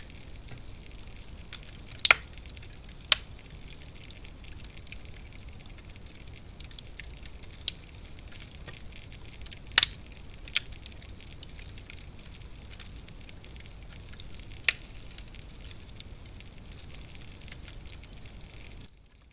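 Wood fire crackling in a fireplace: a steady hiss of fine crackle with sharp pops every few seconds, the loudest about two, three and ten seconds in. The sound drops off suddenly just before the end.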